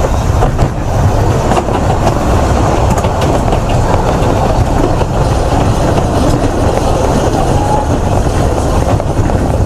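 Narrow-gauge railway carriage running along the line, heard from on board: a steady, loud rumble of wheels on rails with scattered light clicks and rattles.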